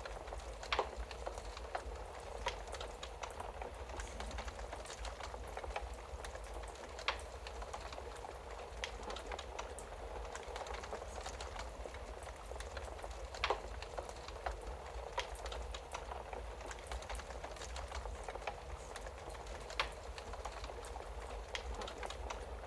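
Wood fire crackling in a fireplace: a steady bed of small crackles over a low rumble, with a handful of sharper pops scattered through.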